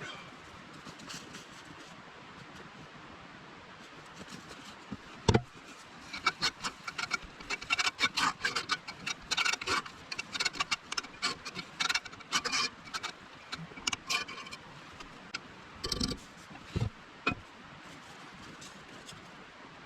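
Hands-on handling noises while cooking: a dense run of quick clicks and scrapes, with a sharp knock about five seconds in and another near sixteen seconds.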